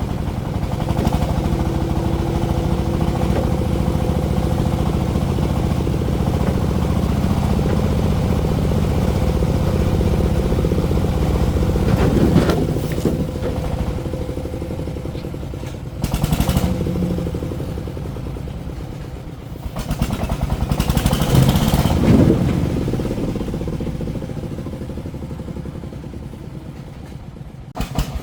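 Single-cylinder diesel engine of a công nông farm truck running steadily, with a few brief louder surges and clatter about halfway and about three-quarters of the way through.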